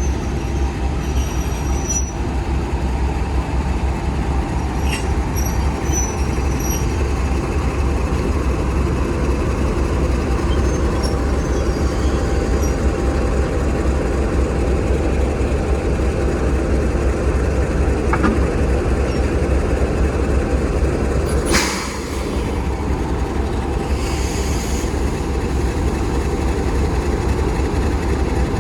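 A train running along the rails with a steady, heavy rumble, with a few faint high wheel squeals near the start and one sharp clank about two-thirds of the way through.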